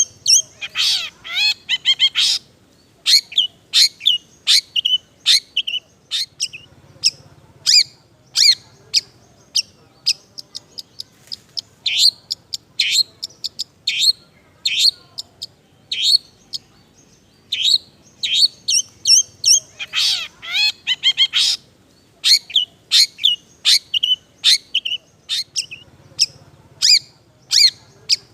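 Long-tailed shrike (cendet) singing a fast, continuous string of short sharp chirps and trills, mixed with mimicked calls of other birds. Two dense flurries of quick falling notes come about a second in and again about two-thirds of the way through.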